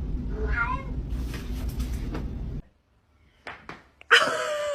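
A cat meowing: a short meow about half a second in over a low steady rumble, which cuts off. After two clicks, a longer held cry starts near the end.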